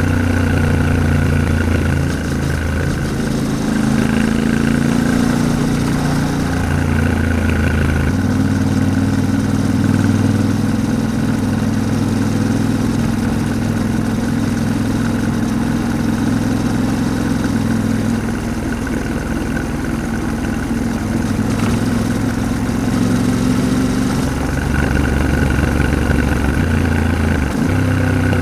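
Yamaha Ténéré 700's 689 cc parallel-twin engine running under way over a steady rush of noise. Its note steps in pitch about eight seconds in and again twice near the end.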